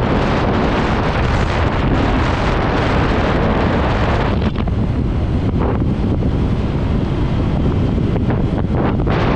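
Strong wind buffeting the microphone during a scooter ride: a loud, steady wash of noise, heaviest in the low end, that buries any engine sound. The higher hiss thins out in patches from about halfway through.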